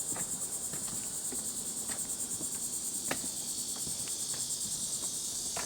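Insect chorus: a steady, high-pitched, rapidly pulsing trill, with a few faint ticks over it.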